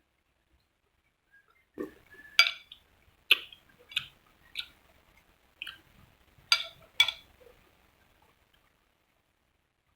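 Someone eating noodle soup: a run of about eight short, sharp slurps and mouth smacks spread over some six seconds.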